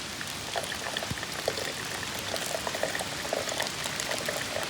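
Water boiling for coffee, with many small irregular bubbling pops, over a steady hiss of rain.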